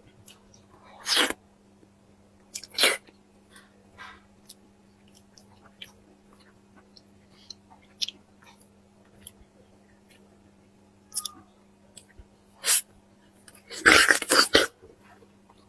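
Close-miked mouth sounds of eating: wet chewing and smacking in scattered short bursts, with a louder cluster near the end, over a faint steady hum.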